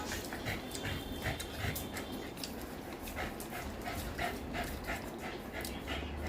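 A Labrador retriever panting in quick, regular breaths, about three a second.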